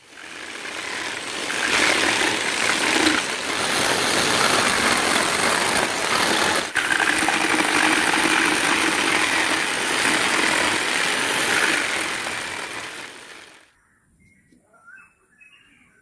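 A handheld power tool running loudly as it grinds or cuts wood, with a momentary break partway through. It winds down and stops near the end.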